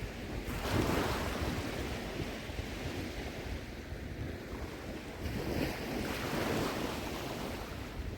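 Small waves washing on a sandy shore, with wind buffeting the microphone; the wash swells about a second in and again past the middle.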